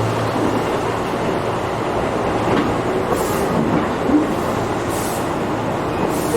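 Tobu 8000-series electric commuter train running, heard from inside the passenger car: a steady wheel-and-track rumble with a low hum, occasional clicks from the wheels over rail joints, and brief swells of hiss.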